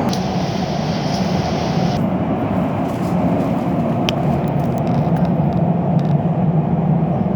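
Elizabeth line Class 345 electric train running at speed, heard from inside the carriage: a loud, steady low rumble of wheels on rail, with a single brief click about four seconds in.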